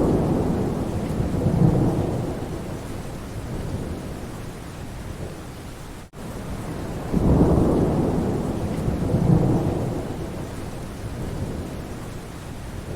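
Steady rain falling with low rolls of thunder that swell at the start and again about seven seconds in. The sound drops out for an instant about six seconds in, where a short recording seems to repeat.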